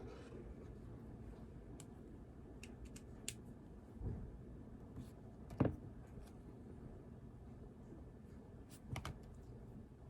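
A few scattered clicks and taps from desk work, over a steady low room hiss. There is a sharp click a little after three seconds, a knock at about four seconds, the loudest knock just past halfway, and a double click near the end.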